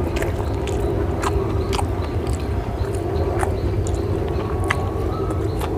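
A man chewing a mouthful of rice and mutton, with wet lip-smacking clicks every fraction of a second, over a steady low hum.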